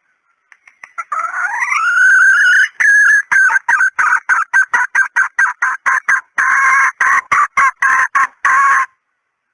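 Female red junglefowl (hen) calling: a rising drawn-out note, then a run of short clucking calls at about three to four a second, with a couple of longer notes among them, ending abruptly. It is the hen call hunters play as a lure for junglefowl.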